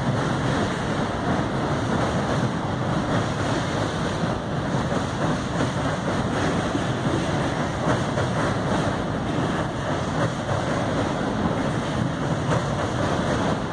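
Steady rumble of a freight train's container cars rolling across a steel truss bridge, wheels running on the rails.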